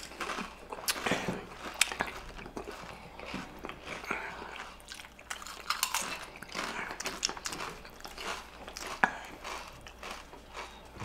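Close-miked chewing and crunching of crisp chips, in irregular sharp crunches with wet mouth sounds between them.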